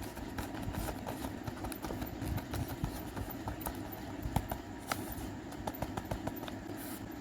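Paper squishy of paper and tape being handled and squeezed, giving irregular crinkling and crackling over a low rumble of handling noise.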